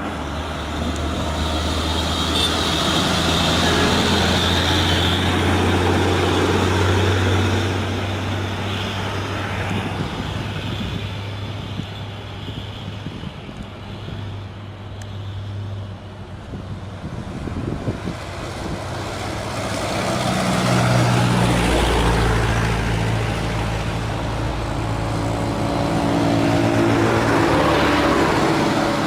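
Heavily loaded diesel cargo trucks climbing a hill. One truck's engine drones steadily and fades away after about fifteen seconds, then a second truck's engine comes in louder from about twenty seconds in.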